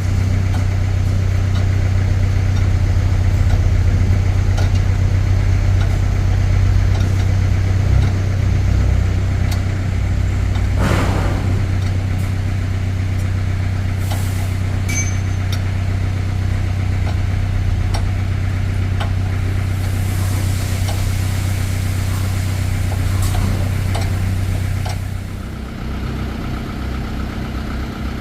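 A motor or engine running steadily with a low hum, with a few scattered light knocks. Near the end the low hum drops away and a quieter running sound continues.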